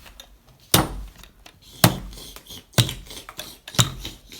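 Toy dinosaurs knocked against a hard surface: four sharp knocks about a second apart.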